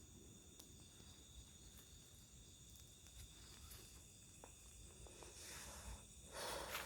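Faint steady trilling of night insects such as crickets, a few thin high tones held unbroken. Near the end comes a brief rustling noise.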